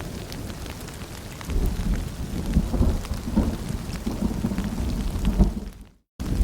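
Rain falling, with scattered drips, and a low rolling rumble of thunder that swells about a second and a half in. Near the end the sound fades out into a brief silence and then starts again.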